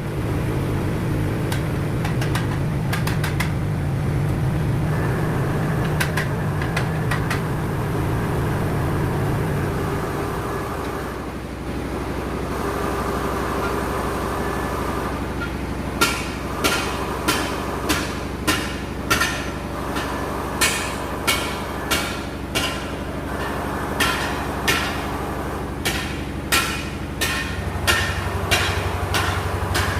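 A steady low machine hum, then from about halfway in a run of sharp, evenly spaced hammer blows, roughly three every two seconds in short series.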